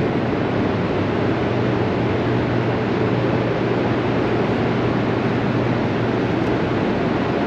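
Steady, loud machinery noise of the Hoover Dam power plant: an even rushing sound with a low electrical hum under it, which drops out about six and a half seconds in.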